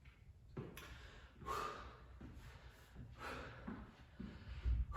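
A man breathing hard through his mouth, about four heavy breaths in and out, as he catches his breath after a set of explosive squats.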